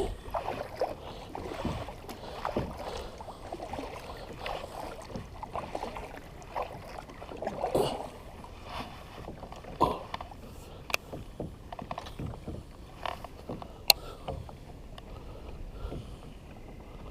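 Water splashing and lapping around a small plastic kayak, in irregular swells, with a few sharp knocks against the hull or gear, the sharpest one late on.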